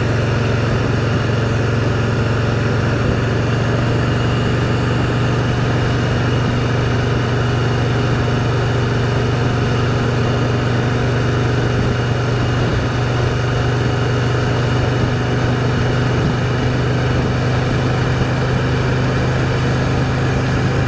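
Can-Am Spyder three-wheeled motorcycle engine running steadily at an even cruising speed, its pitch holding constant throughout.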